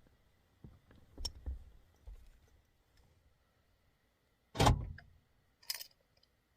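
Small clicks and knocks of handling inside a truck cab, with one loud clunk about four and a half seconds in and a short rustle a second later.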